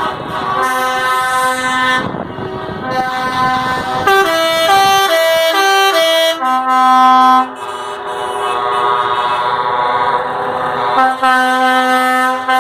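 Truck air horns sounding in long held notes, several at once. From about four seconds in, a horn plays a quick run of changing notes like a short tune, then long held blasts resume.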